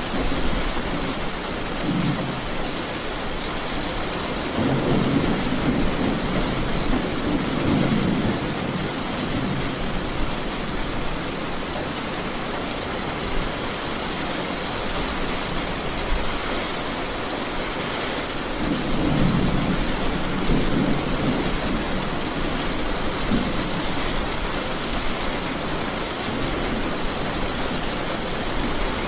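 Steady rain with two long rolls of thunder, the first about five seconds in and the second just under twenty seconds in.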